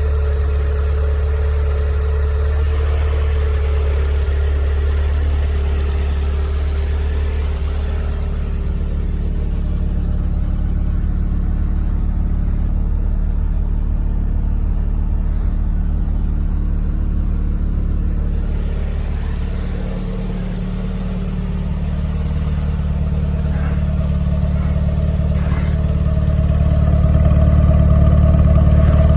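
Scimitar SS1 Ti's turbocharged 1.8-litre Nissan CA18DET four-cylinder engine, fitted with a hybrid T28/25 turbo, running steadily. The engine note dips briefly about two-thirds of the way through and grows louder near the end.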